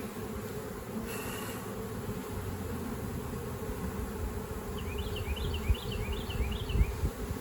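Honey bees buzzing steadily around an open hive as the colony is worked, with a run of short, high rising chirps about five seconds in and a couple of low bumps near the end.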